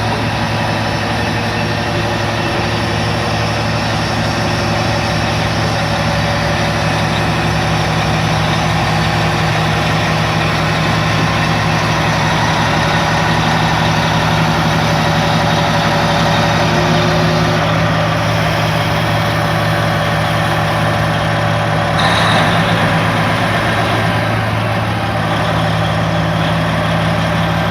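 Heavy diesel engine of a Caterpillar D10N bulldozer running steadily, with a short swell in level about three-quarters of the way through.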